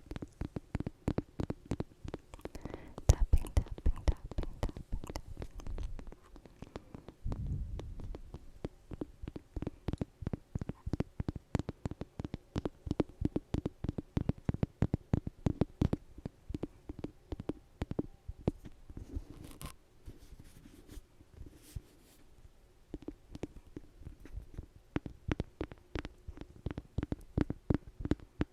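Close-miked ASMR trigger sounds: a fast, uneven run of soft taps and crackles right at the microphone, several a second.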